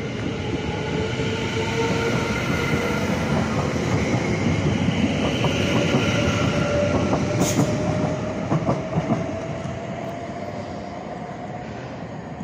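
London Overground Class 710 electric multiple unit pulling away and passing close by: a steady rumble of wheels on rail with a whine that rises slowly in pitch as it gathers speed. A few wheel clicks come about halfway through, then the sound eases off as the train draws away.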